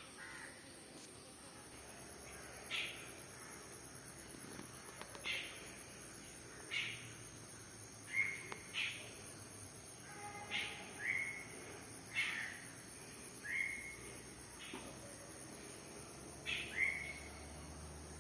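A bird calling over and over, short sharp downward-sliding calls every second or two, some ending in a brief held note. A steady high-pitched insect drone runs underneath.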